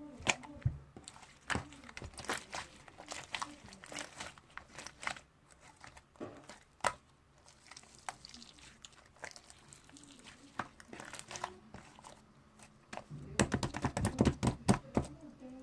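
Slime being squeezed and pulled by hand, giving a steady run of small sticky clicks and crackles that grow denser and louder near the end.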